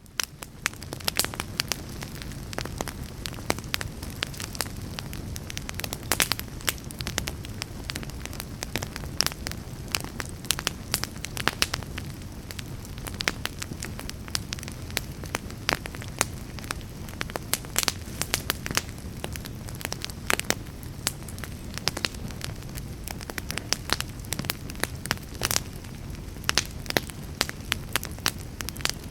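Wood fire in a fireplace crackling, with frequent irregular sharp pops over a steady low rumble of the flames. The sound fades in at the start.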